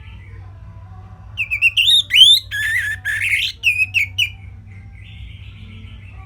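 Orange-headed thrush (anis merah) singing one rapid phrase of varied whistled notes, slurs and sweeps lasting about three seconds. A low steady hum runs underneath.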